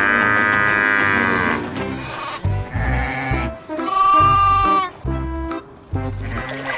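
Two long bleats from a farm animal, the first lasting under two seconds and the second about four seconds in, over background music with a steady beat.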